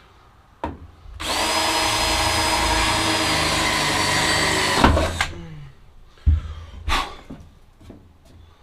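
Handheld electric power tool, such as a drill, running steadily at one speed for about four seconds with a high whine, then stopping with a knock; a few short knocks and clunks follow.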